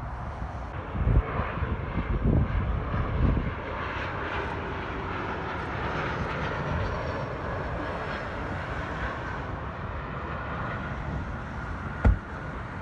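Engines of an arriving airliner, a steady rush with a faint whine that slides slowly in pitch. There are low rumbling thumps between about one and three and a half seconds in, and a sharp click near the end.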